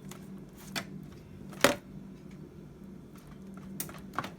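A few short sharp clicks and knocks of a utensil against the pan while ribs are being basted with glaze, the loudest about a second and a half in, over a steady low hum.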